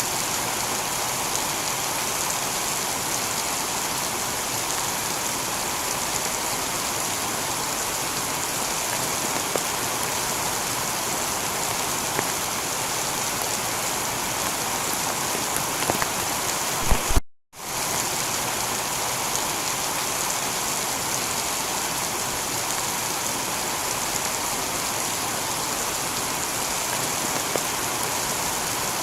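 Heavy rain falling steadily on a tiled roof, an even downpour with no thunder. About two-thirds of the way through, the sound cuts out briefly to silence and then resumes.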